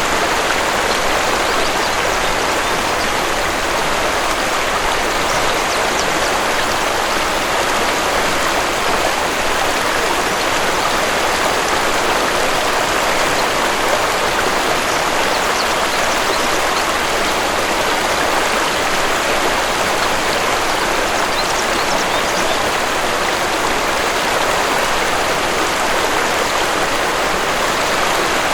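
Waterfall: a steady, even rush of falling water, unchanging in level.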